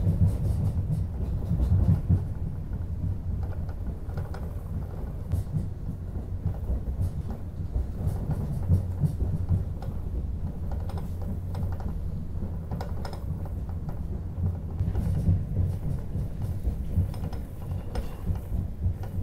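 Low, steady rumble of a Talgo 250 "Strizh" high-speed train under way, with scattered clicks and knocks.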